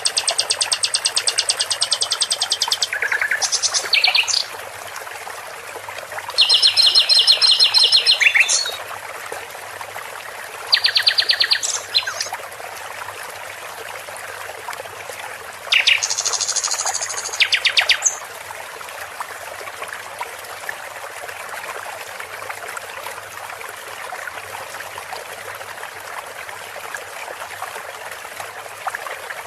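A songbird singing in bursts of rapid, evenly repeated high notes, four bursts in the first 18 seconds, over a steady rush of running water that carries on alone after that.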